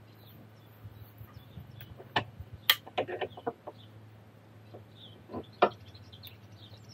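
Scattered metallic clicks and knocks as a sway bar end link on a Tesla Model S front axle is worked into its mounts, the stud tapping against the suspension parts.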